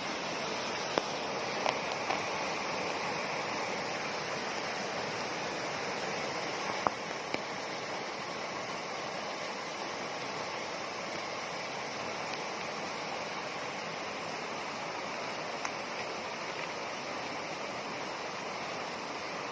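Steady rush of flowing water, with a few faint, brief clicks.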